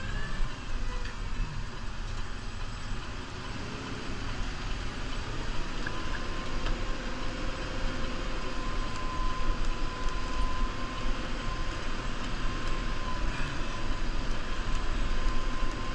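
New Holland Powerstar 75 tractor's diesel engine running steadily under load, with a steady whine coming in about six seconds in and holding.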